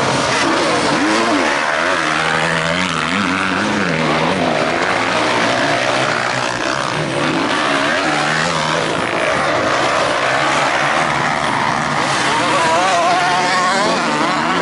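Several motocross bikes racing, their engines revving up and down through the gears as they pass around the track.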